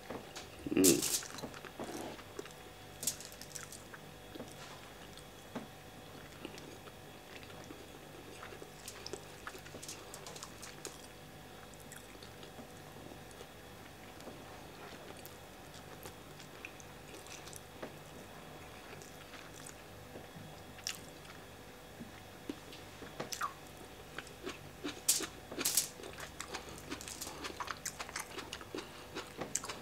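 A man chewing mouthfuls of jollof rice eaten by hand, with scattered short wet clicks and smacks. The loudest is about a second in, and they come more thickly again near the end.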